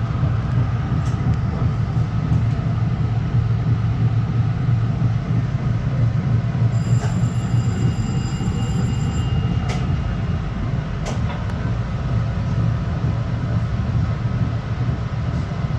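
Long Island Rail Road M3 electric multiple-unit car running, heard from inside the car: a steady low rumble of wheels and running gear, with a couple of sharp clicks about ten and eleven seconds in and a brief faint high whine near the middle.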